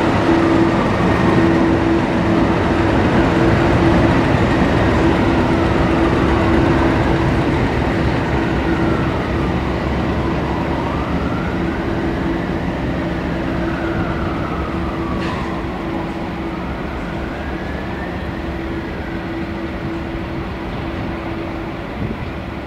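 A train running at the station: a steady hum over a broad rumble that slowly grows quieter, with faint whining tones that rise and fall every few seconds and a single click about two-thirds of the way through.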